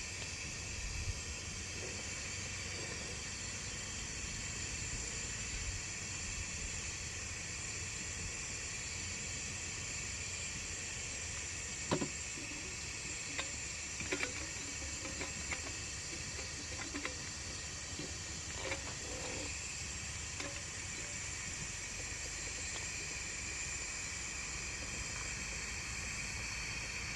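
Steady gas hiss of a single-burner cassette (CB canister) stove running, with a few light clicks and taps through the middle.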